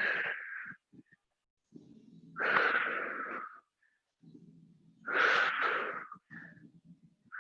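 A woman breathing hard during a dumbbell lunge-and-curl set, with a loud forceful exhale about every two and a half seconds, one per rep.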